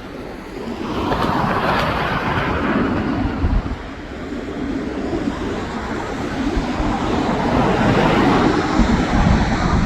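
Boeing 737 jet engines at takeoff thrust: a loud, rushing jet noise that swells about a second in, eases briefly around four seconds, and builds again near the end.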